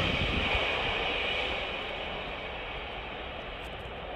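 Bombardier Regio 2N double-deck electric train pulling away, its rolling noise fading steadily.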